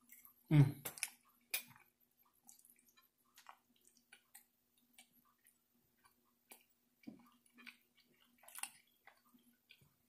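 Close-up wet chewing and mouth sounds of someone eating soft green beans and roast beef, with scattered soft clicks. One louder burst comes about half a second in.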